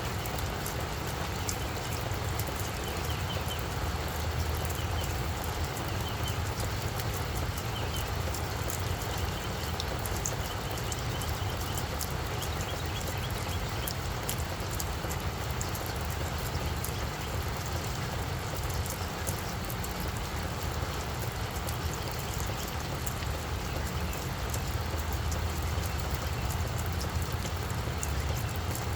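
Steady rain falling on a flower bed, with many small sharp drop ticks over a steady low rumble.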